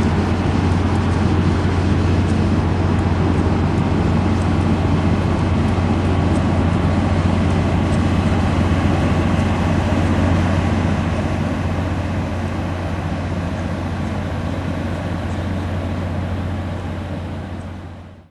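Steady low rumble and rush of a moving Amtrak passenger train, heard from on board, which eases off and fades out near the end.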